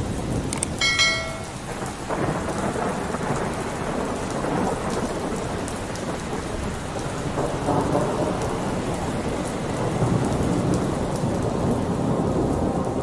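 Steady heavy rain with rolling thunder rumbling underneath. A brief high ringing tone sounds about a second in.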